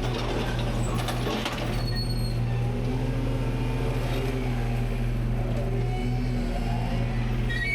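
Rear-load garbage truck's engine running steadily with a low hum, with faint wavering mechanical tones and a few light clicks over it.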